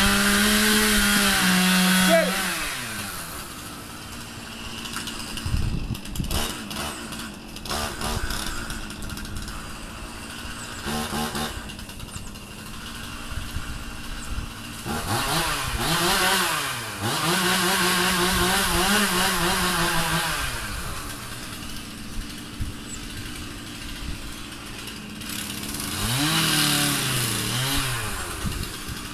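Two-stroke chainsaw running at full throttle in a felling cut, then let off about two seconds in and dropping to idle. A run of sharp cracks and thuds follows around six to eight seconds in. The saw is revved up and held, then let back down, twice later on.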